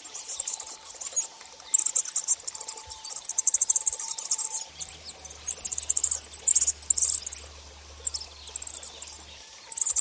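Common swifts screaming: repeated shrill, buzzy trilled screams in bursts of a second or two, with short pauses between.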